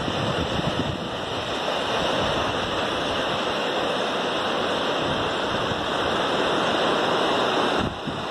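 Steady roar of surf breaking on a beach, with wind buffeting the microphone. The roar drops off suddenly shortly before the end.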